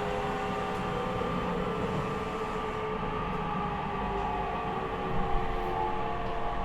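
E501 series EMU motor car running, its Toshiba IGBT VVVF inverter and traction motors whining in several tones that slowly fall in pitch as the train slows, over steady wheel and rail rumble.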